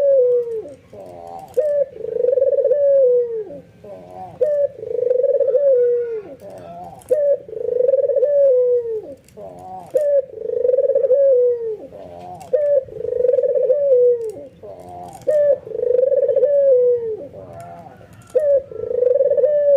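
White (albino) ringneck dove cooing over and over in its bowing display call: a short note, then a long low coo that drops at the end, repeated about every two seconds.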